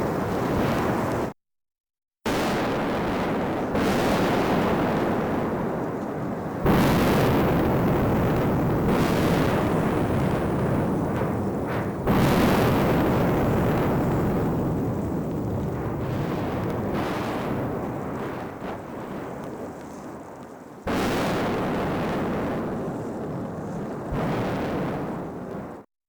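Mount Etna erupting: a continuous deep roar broken by sudden explosive blasts about 7, 12 and 21 seconds in, each one dying away slowly. There is about a second of dead silence near the start.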